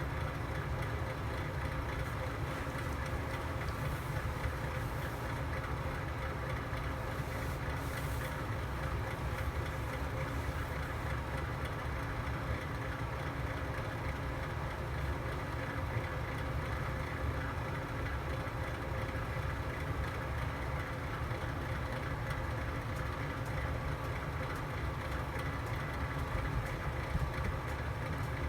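Fire burning in a fireplace: a steady low rumble with a faint hum. There are a couple of faint crackles about four and eight seconds in.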